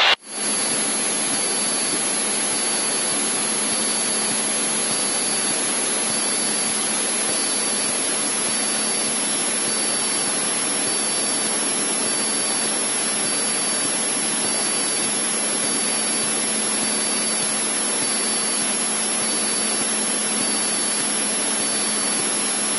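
Steady drone and hiss of a Cessna 152's engine and propeller heard inside the cabin in level cruise, with a constant low hum under it.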